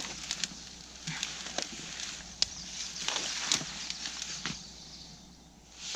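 Spruce boughs and dry sticks of a bough bed rustling and crackling under a person getting in and lying down on it, with many sharp cracks of twigs; it settles and quietens near the end.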